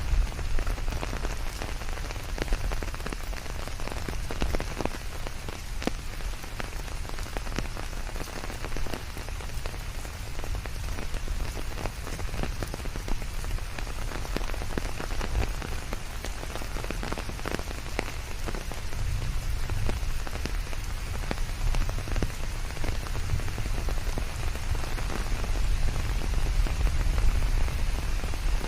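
Steady rain falling, with many separate drops pattering on surfaces over a continuous hiss and a low rumble.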